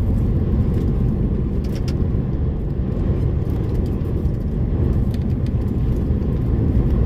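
DAF lorry driving, a steady low rumble of engine and road noise heard from inside the cab.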